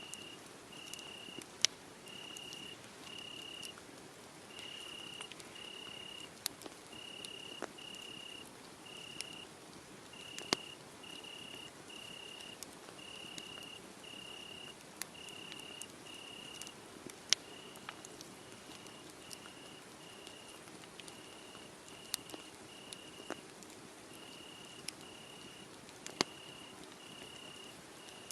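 Crickets chirping in a steady rhythm, about one chirp a second, over a wood fire crackling with scattered sharp pops.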